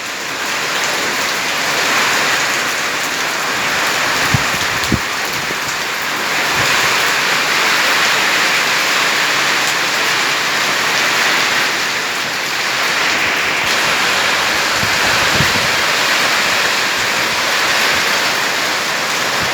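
Heavy rain falling steadily in a thunderstorm, a dense even hiss, with a few brief low knocks.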